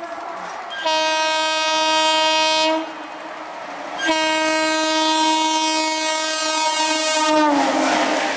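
Horn of a passing express train: a short toot, then two long blasts, the second dropping in pitch as the train goes by. It is followed by the rushing noise of the train passing at speed.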